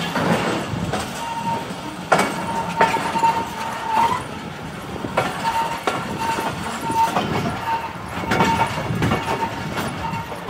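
Passenger train coaches rolling slowly through a station yard, heard from an open coach door: a steady running rumble with irregular clacks as the wheels cross rail joints and points, and a high squeal that comes and goes.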